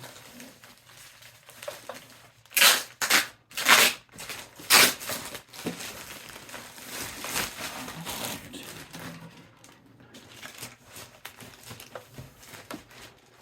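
Packaging being handled and crinkling, with four loud crinkling bursts in quick succession between about two and a half and five seconds in, then quieter rustling.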